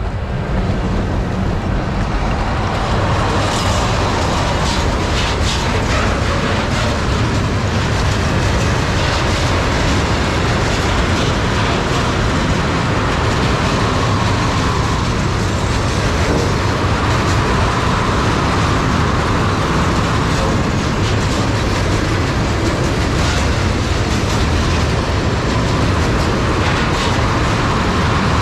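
Electric train passing close by: a loud, steady rumble of wheels on the rails with scattered clicks. It swells up right at the start and then holds steady throughout.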